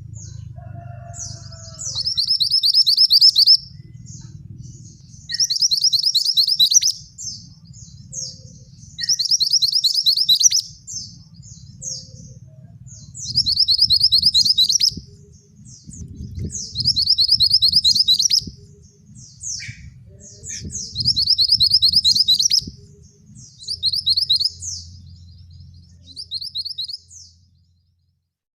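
Male mantenan songbird singing in repeated loud, high, fast-trilled phrases, each about a second and a half long, coming roughly every three and a half seconds, with short chips between them. A low background rumble runs underneath.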